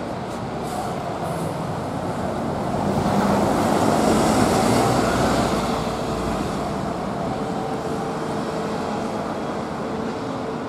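Steady vehicle running noise that swells louder for a few seconds around the middle, with a faint steady hum underneath.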